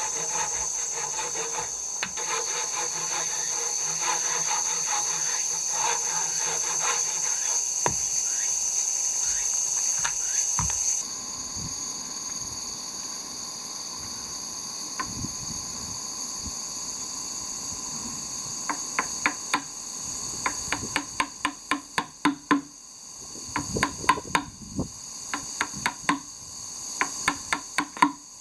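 Steady high insect chorus with wood being scraped or rubbed by hand; from about two-thirds of the way in, a run of quick sharp taps.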